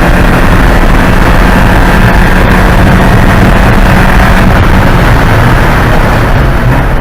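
Porsche 944 Spec race car's 2.5-litre four-cylinder engine running loud at steady high revs under racing load; its pitch drops about five seconds in.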